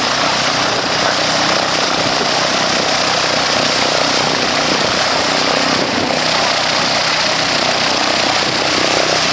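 Light aircraft's piston engine and propeller running steadily, a loud unbroken drone with a constant rushing noise over it.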